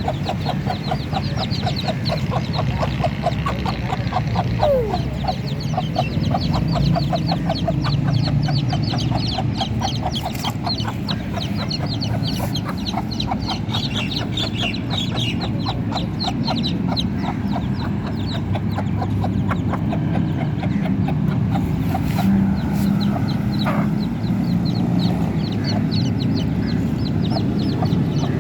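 A brood of chicks cheeping rapidly and without a break, with a hen clucking among them.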